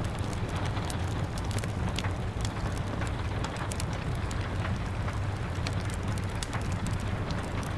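Steady rain mixed with a crackling wood fire: a constant rushing hiss with a low rumble underneath, and many small, sharp crackles and pops at irregular intervals.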